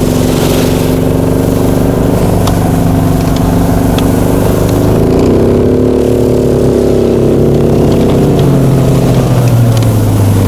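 Motorized snow-dog pusher's engine running under load while it pushes through deep loose snow, revving higher about five seconds in, holding there, then dropping back near the end.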